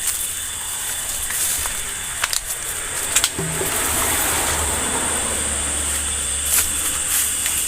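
Steady high-pitched drone of insects, with a few sharp clicks and some rustling noise swelling briefly in the middle.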